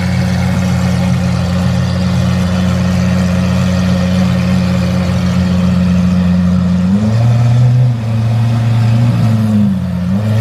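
A car engine running at a steady idle, then its pitch rising about seven seconds in and wavering up and down with light throttle.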